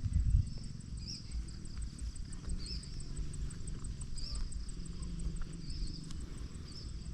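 Outdoor insect chorus, a high trill pulsing fast and evenly, with short chirping calls repeating every second or so over a low rumble on the microphone. There is a bump near the start.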